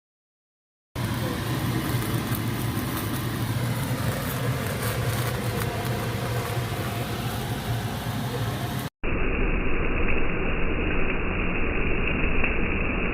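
A car running, with steady engine and road noise. It cuts off suddenly about nine seconds in and comes back at once, duller.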